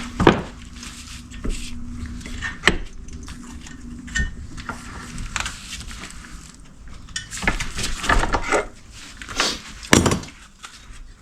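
Hand tools and small metal parts clinking and knocking during hands-on work on the engine, with irregular sharp clicks, and a faint steady hum in about the first half.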